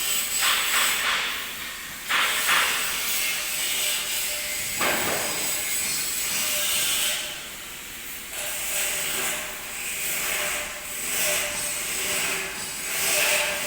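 Electric arc welding: a steady crackling hiss from the arc, surging and easing irregularly.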